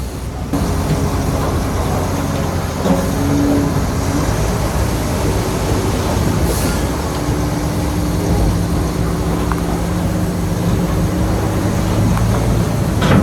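Heavy construction machinery's diesel engine running under steady load, its note shifting slightly now and then, with a few sharp metallic clanks near the end.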